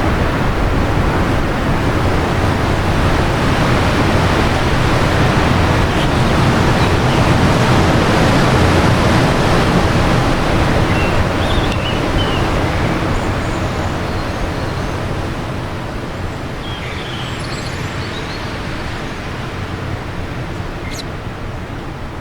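Wind blowing in a long gust that builds for about eight seconds and then slowly dies down. A few faint bird chirps come in the second half.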